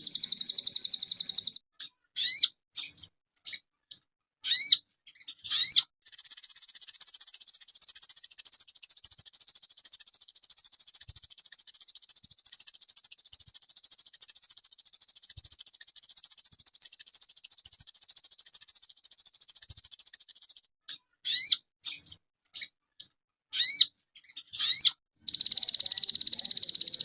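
Sogon bird singing loud, high, very fast trills, broken twice by runs of short separate chirps that sweep down in pitch. The longest trill, from about six seconds in, holds for roughly fifteen seconds.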